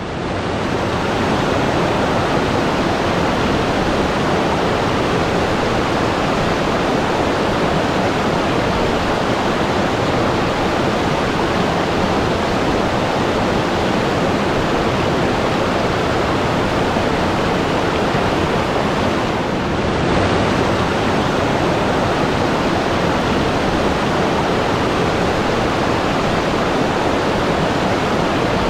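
Rushing water, a steady, even wash of sound with no surges, dipping slightly for a moment about twenty seconds in.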